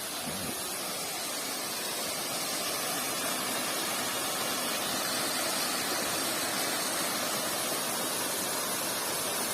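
Waterfall: a steady rush of falling water, an even hiss that grows slightly louder over the stretch.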